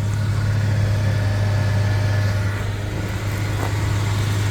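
Ford F450 bucket truck's engine idling with a steady low hum.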